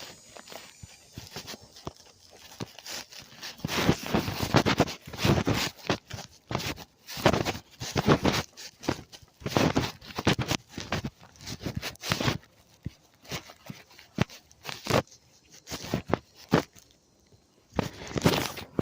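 Irregular rustling and scraping close to the microphone, in uneven bursts with a few sharp clicks. It grows denser and louder a few seconds in and stops just before the end.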